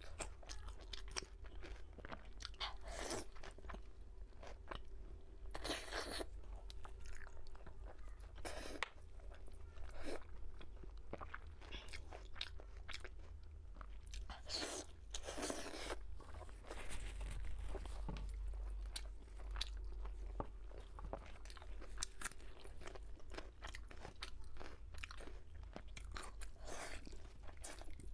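Close-miked eating of pork knuckle: steady wet chewing and biting of the meat, skin and tendon, full of small clicks, with several louder brief bursts.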